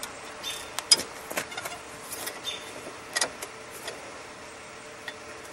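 A few scattered sharp clinks and knocks of steel being handled and tapped, the loudest about a second in, over a steady faint hiss.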